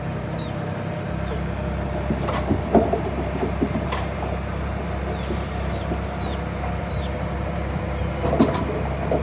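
Heavy diesel earthmoving machinery running steadily, its engine drone rising about a second in, with several sharp metallic clanks and knocks, loudest about two and a half seconds in and again near the end.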